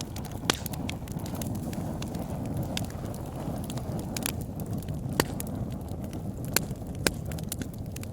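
Wood fire burning in a fireplace: a steady low rush of flames with irregular sharp crackles, and a few louder pops spread through.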